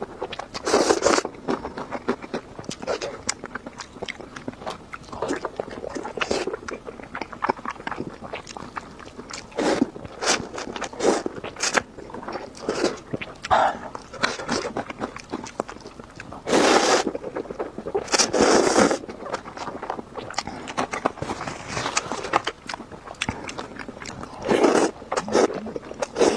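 Close-up eating of instant noodles with pork belly: chewing and crunching with clicks and scrapes throughout, broken by several loud slurps about a second long, the biggest around the middle and near the end.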